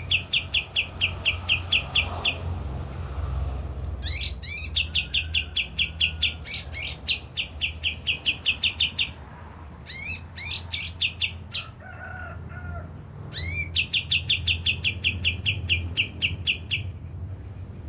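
Kapas tembak songbird singing in repeated phrases. Each phrase opens with a few quick rising whistles and runs into a fast string of sharp identical notes, about five a second, and the phrase comes four times. A low steady hum runs beneath.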